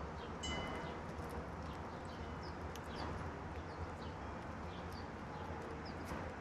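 Songbirds chirping and calling, many short high chirps scattered throughout, with a brief ringing call about half a second in, over a steady low background hum.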